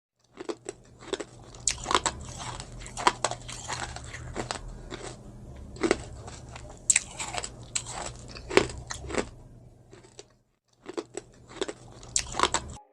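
Close-miked eating: a person biting and chewing crunchy baked jalapeño poppers, with many sharp crackling crunches and softer chewing between them.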